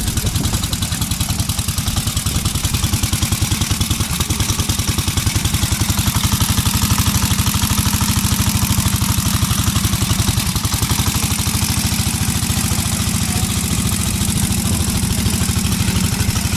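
Engine of a 1909 Lincoln Elk veteran motorcycle running after a pedal start, with a rapid, even firing beat.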